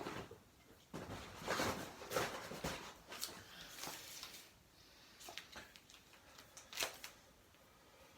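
Handling noises: rustling and a few separate sharp clicks as a phone is plugged into a charging cord.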